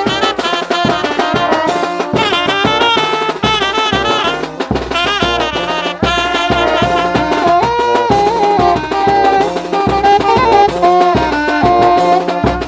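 Tanjidor brass band playing a lively tune: brass instruments carry the melody over a steady drum beat.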